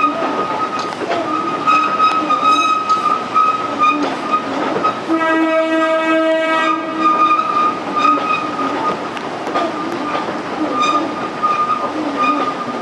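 Kurobe Gorge Railway trolley train running with a steady high squeal and irregular clicks over the rails. About five seconds in, the train's horn sounds once and is held for about two seconds.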